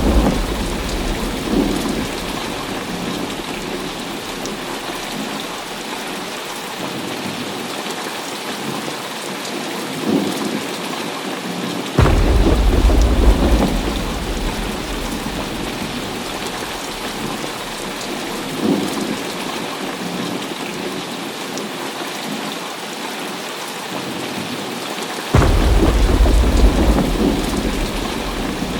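Heavy rain falling steadily, with rolling thunder: a rumble dying away at the start, then two sudden claps about twelve and twenty-five seconds in, each rumbling on for a few seconds before fading back into the rain.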